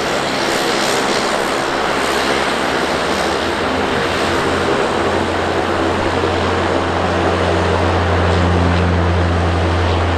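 Embraer EMB-120 Brasilia twin turboprop passing close by: a steady, loud rush of engine and propeller noise, with a deep propeller drone that sets in about five seconds in.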